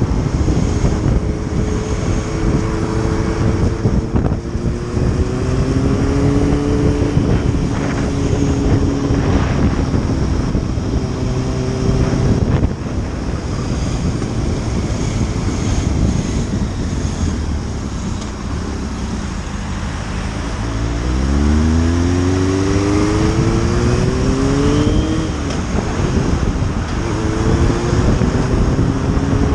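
Motorcycle engine running on the road under heavy wind rush on the microphone. Its pitch rises steeply as it accelerates about two-thirds of the way through, drops at a gear change, then climbs again near the end.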